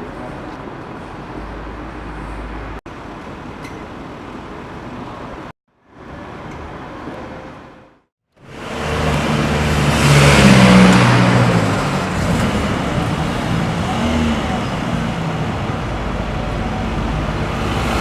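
Street traffic noise, then after two abrupt cuts a car engine comes in loudly about halfway through, swelling to a peak and carrying on over the traffic.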